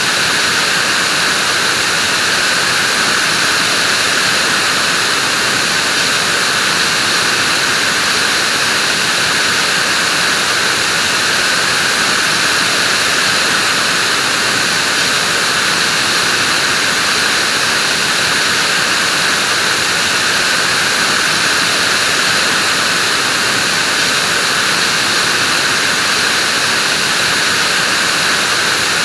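Vacuum cleaner running steadily: a loud, unchanging whooshing hum with a hiss.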